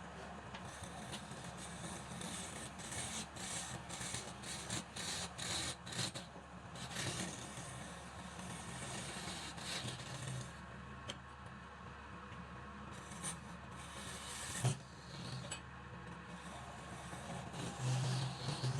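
Wood lathe motor running with a steady hum while a tool scrapes and rubs against the spinning wood in repeated rasping strokes.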